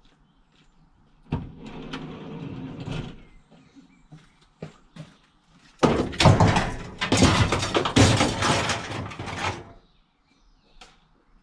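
Scattered knocks, then two long bursts of scraping and rattling, the second, about six seconds in, the louder and longer.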